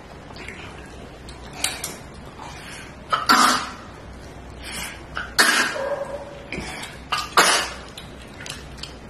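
A person coughing a few times in short, sharp bursts while eating.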